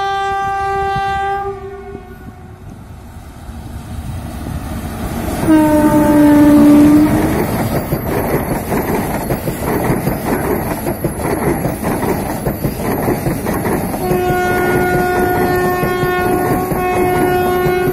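Electric locomotive hauling the Vande Bharat Express (Train 18) rake past at close range. A short horn blast sounds at the start and a louder, lower one about five and a half seconds in. The train then rumbles by with wheels clacking over rail joints, and a long horn blast begins about fourteen seconds in and holds to the end.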